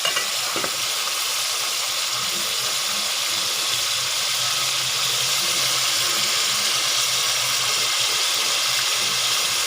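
Chicken pieces frying in oil and onion masala in a pot, a steady sizzle as they are browned, with a couple of brief stirring knocks just after the start.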